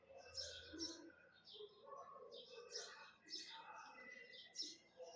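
Birds chirping: a run of short, high chirps, over fainter lower calls.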